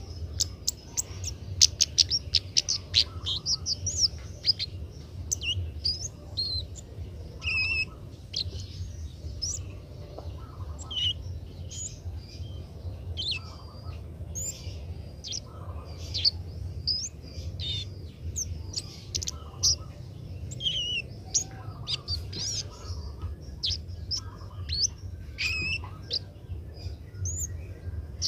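Kemade bird song: a rapid run of sharp clicking chirps at the start, then a steady stream of varied short chirps and whistled notes, over a low steady hum.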